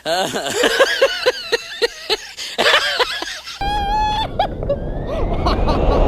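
A person's voice in short rhythmic bursts, like laughing. About three and a half seconds in it cuts off abruptly to loud wind buffeting the microphone, with a brief steady tone over it.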